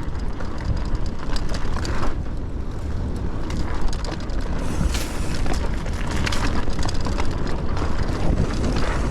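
Mountain bike rolling fast downhill on a rough dirt trail: heavy wind rush on the action camera's microphone, with a steady clatter of small knocks and rattles from the bike over the rough ground.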